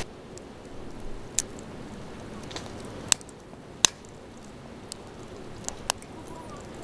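Wood campfire crackling: a soft steady hiss with about six sharp pops from the burning firewood, the loudest two a little under a second apart in the middle.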